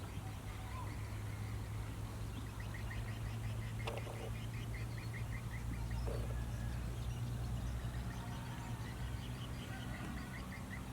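Runs of short, quick chirps, typical of small birds calling, over a steady low hum, with a single sharp click about four seconds in.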